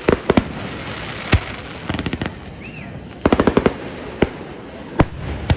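Fireworks going off: separate sharp bangs, a few short clusters, and a fast string of crackling reports about three seconds in.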